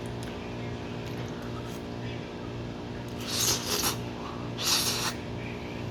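Two short hissing mouth sounds of someone eating pasta, a slurp or sharp breath a little past the middle and another about a second later, over a steady background hum.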